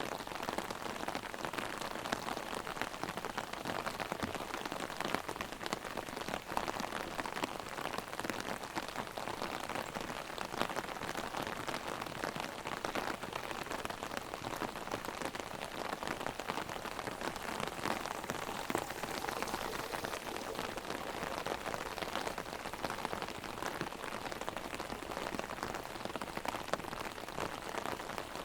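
Heavy rain drumming on an umbrella held overhead: a dense, steady patter of drops with many small sharp ticks.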